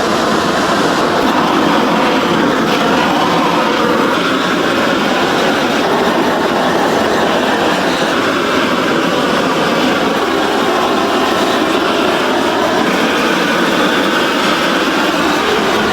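Steady, loud rumble and rattle of factory machinery running without a break.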